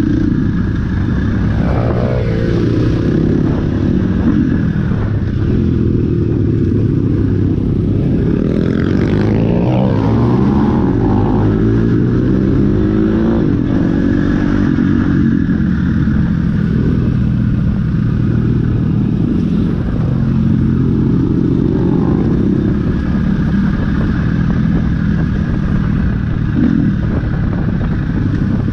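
Dirt bike engines running hard under way, the pitch rising and falling as the throttle opens and closes and gears change. Around a third of the way in, more than one engine note can be heard crossing each other.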